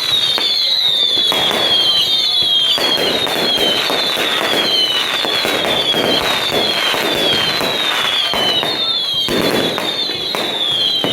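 Whistling fireworks going off one after another, a run of shrill whistles each falling in pitch over about a second, over constant crackling and sharp cracks.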